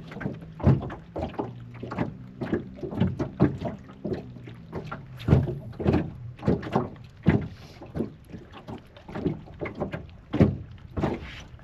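Wind-driven waves slapping against a small fishing boat's hull in irregular knocks, two or three a second.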